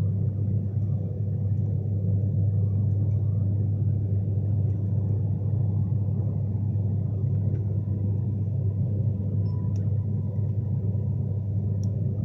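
Steady low rumble of a Class 390 Pendolino electric train running at speed, heard from inside the passenger coach, with a faint steady hum over it.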